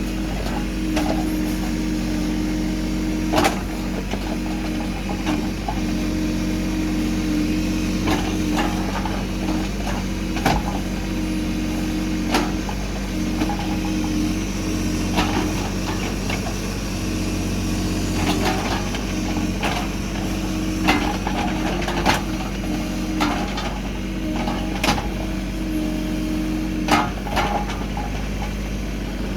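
An engine running steadily, with sharp knocks and clanks at irregular intervals, several seconds apart.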